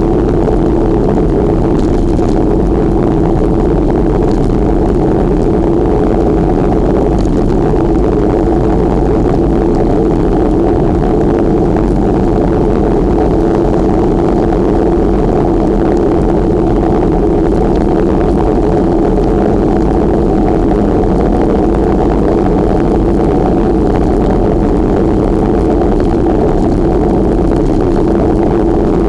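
Steady, loud rushing noise of wind and road on the microphone of a moving bicycle, unchanging throughout.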